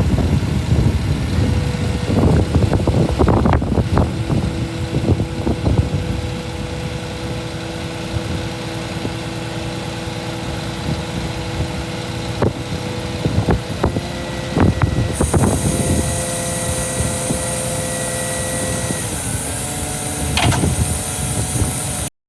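Scania G490 truck's 13-litre inline-six diesel running at idle, with steady whining tones over the engine for most of the time and a few knocks and clunks. The sound cuts off suddenly near the end.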